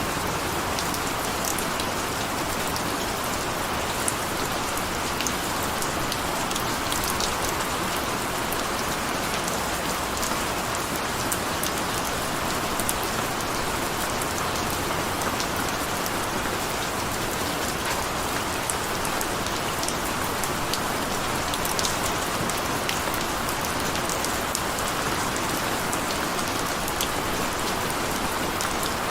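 Steady rain falling, a continuous hiss with many fine drop ticks, at an even level throughout.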